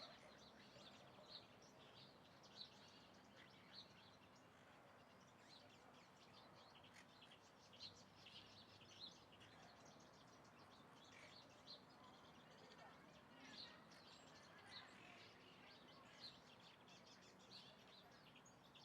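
Faint birds chirping: many short, high notes scattered irregularly over a steady background hiss.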